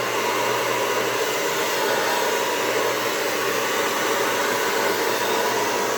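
Handheld hair dryer with a concentrator nozzle attachment blowing steadily, a faint even whine over the rush of air.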